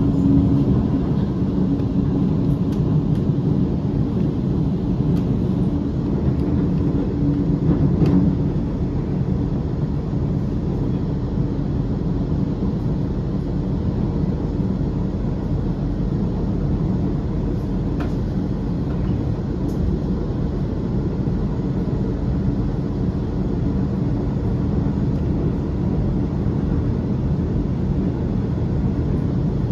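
Sydney Trains electric suburban train running, heard from on board: a steady low rumble and hum, with a few faint clicks.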